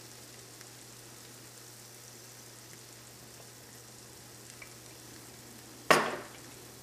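Eggs and green peas frying gently in a stainless steel pan over a low flame, a faint steady sizzle. About six seconds in there is a single sharp knock.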